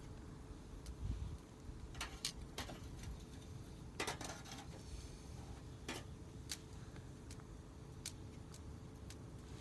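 Burning firewood crackling: irregular sharp pops, about a dozen, over a faint low rumble.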